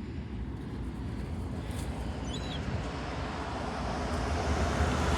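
A road vehicle's rumble growing steadily louder as it approaches. About halfway through comes one brief high chirp from a bird.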